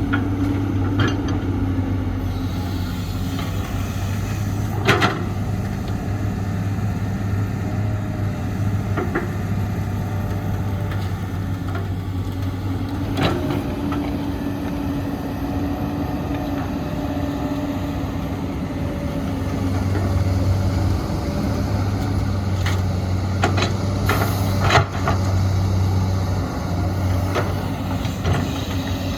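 Heavy diesel construction machinery at work, an excavator loading dump trucks: a steady engine drone that grows louder about two-thirds of the way through, with a few sharp metallic clanks.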